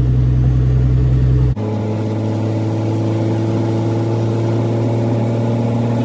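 Kenworth W900B's straight-piped Caterpillar C13 diesel running with a steady low drone while driving. About a second and a half in, the sound switches abruptly to a slightly higher, even hum whose pitch creeps up a little near the end.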